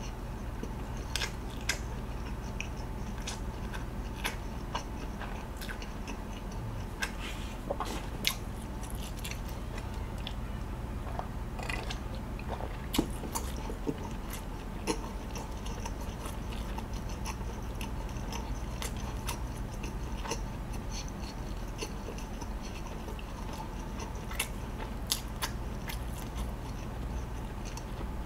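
A person chewing food with the mouth closed, close to the microphone: irregular small clicks and smacks over a steady low hum. The food is dry and dense.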